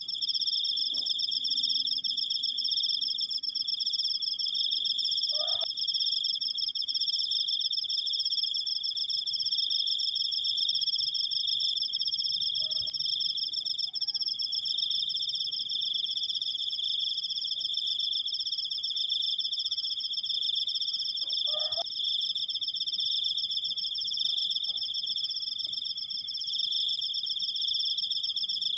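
Cricket singing a long, unbroken high-pitched trill, steady throughout with a fine rapid pulsing.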